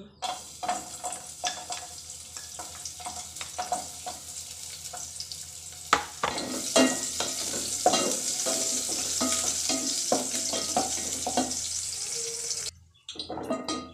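Chopped shallots and garlic sizzling as they fry in a metal pot, with a spatula scraping and knocking against the pot as they are stirred. The sizzle grows louder about halfway through and stops suddenly near the end.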